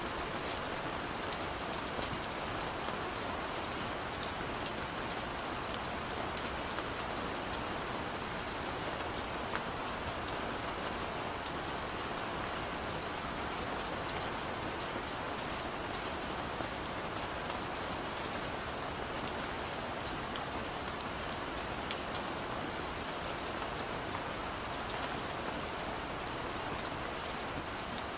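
Steady gentle rain falling on a surface, an even hiss scattered with many small, sharp drop ticks.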